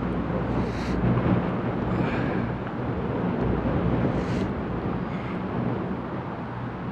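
Wind buffeting the camera-top microphone, a steady low rumble, with a few faint brief rustles.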